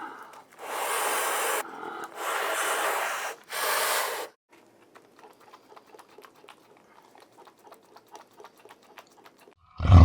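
An animal breathing hard: three long, rough, breathy sounds in the first four seconds, followed by faint scattered clicks.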